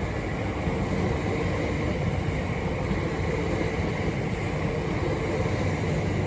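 Class 375 Electrostar electric multiple unit moving through the platform: a steady rumble of wheels on rail with a faint traction hum.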